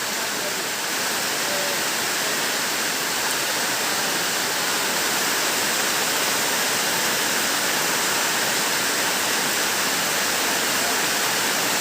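Heavy rain falling steadily in a forest, a dense, even hiss of downpour.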